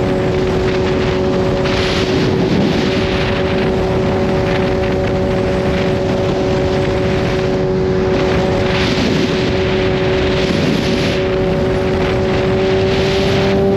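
Kawasaki Z H2's supercharged inline-four engine running at a steady cruise, its pitch creeping up near the end as the bike gently speeds up, with wind rushing over the microphone.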